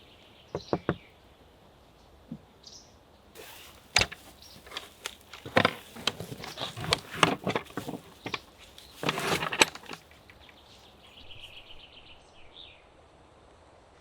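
A run of knocks, clatter and rustling, densest from about three and a half seconds in to about ten seconds, with a few short bird chirps before it and a longer series of chirps after it.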